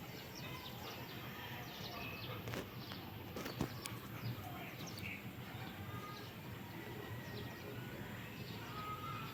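Birds chirping: many short, high calls scattered throughout over a low steady hum, with one sharp knock about three and a half seconds in.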